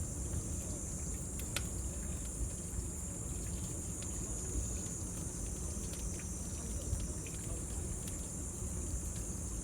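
Cicadas droning steadily in a high, even band, over a low rumble, with scattered faint crackles from a wood fire and one sharper pop about a second and a half in.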